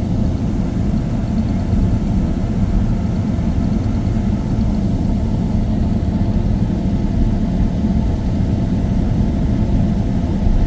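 Steady low rumble of a Boeing 777-300 airliner's engines and airframe, heard from inside the cabin.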